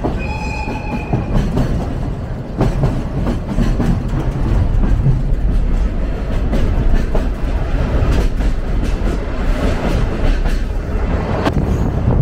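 Sagano Romantic Train running along the track: a steady low rumble with occasional clicks, and a brief high steady tone in the first second.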